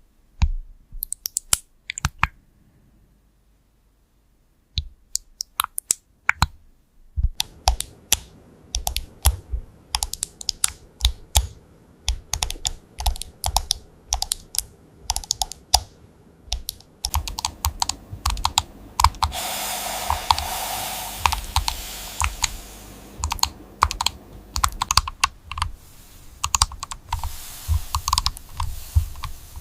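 Typing on a computer keyboard: a few scattered keystrokes at first, then steady, fast typing from about seven seconds in. A steady hiss sits behind the keystrokes in the second half.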